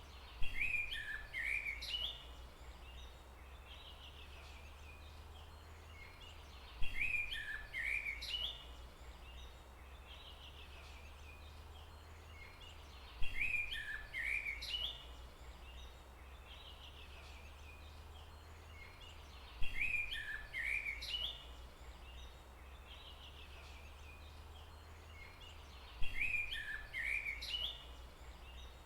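A songbird repeating the same short chirping phrase five times, about every six and a half seconds, each phrase lasting about two seconds, over a steady low rumble.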